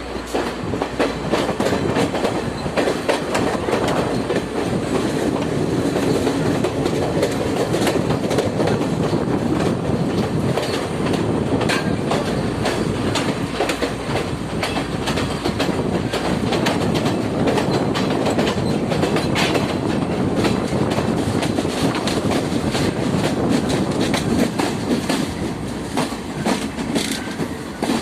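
A train running along the track, heard throughout as a steady rumble with the irregular clatter of wheels over rail joints.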